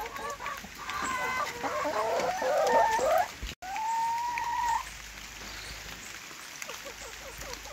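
Chickens clucking with short, quick calls for about three and a half seconds, then one longer drawn-out call, after which the flock goes quieter.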